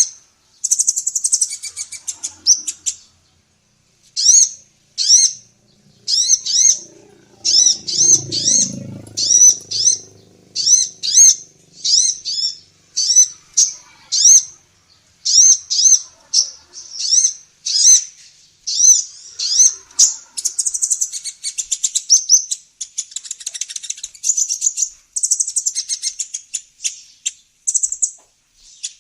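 Female kolibri ninja sunbird singing: quick bursts of high, sharp, upward-flicking chirps, running into a fast continuous twittering trill in the second half. A brief low rumble sounds under the song about eight seconds in.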